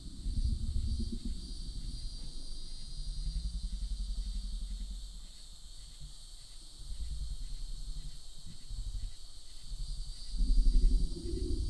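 Loud, low, pitched drone that wavers slowly in pitch. It eases off in the middle and swells again near the end. The sound is unidentified, and the listener says it almost sounds like a big cat.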